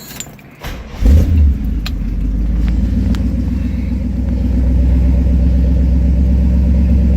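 Original Pontiac 400 V8 with Quadrajet four-barrel carburetor in a 1975 Trans Am starting after a brief crank. It flares up about a second in, then settles into a steady idle, having been warmed up a little.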